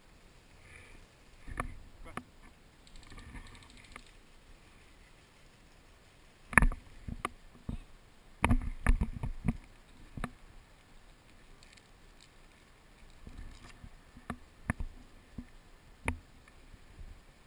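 Irregular sharp knocks and clicks over a quiet background, with one loud one about six and a half seconds in, a quick run of them a couple of seconds later, and a few scattered ones near the end.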